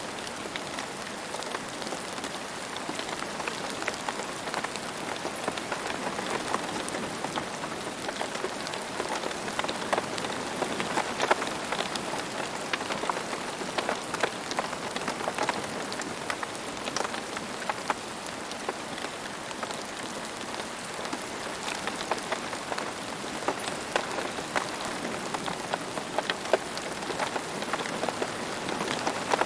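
Steady rain falling on a hard surface: an even hiss dotted with many distinct drop ticks and splats, with no low rumble.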